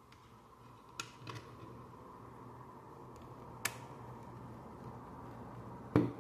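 Plastic Lego pieces being handled and pressed together: a few sharp clicks, and a louder knock near the end, over a faint steady hum.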